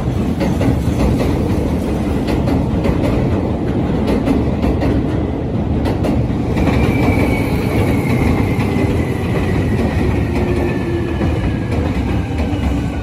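Seibu Shinjuku Line electric trains at the platform: a commuter train running past with a steady rumble of wheels on the rails. From about halfway in, a whine slowly falls in pitch as a second train on the far track slows.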